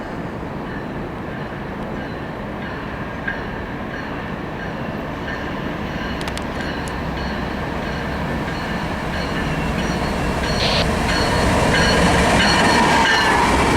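A train approaching on the rails, its rumbling noise growing steadily louder over the last few seconds.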